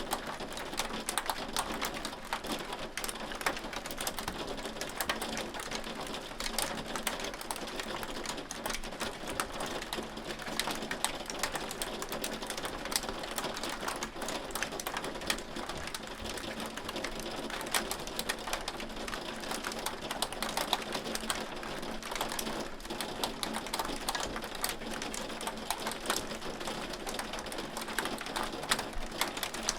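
Hail falling: hailstones striking in a dense, continuous spray of sharp ticks, steady throughout with no pause.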